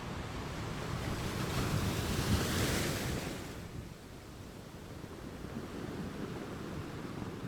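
Ocean waves on a shore: one wave swells and breaks about two to three seconds in, then eases into a quieter, steady wash.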